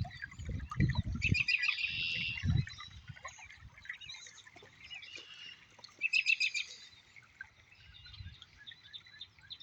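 Songbirds singing, with two louder rapid trilled phrases, about a second in and again about six seconds in, over scattered fainter calls. There are low thumps in the first couple of seconds.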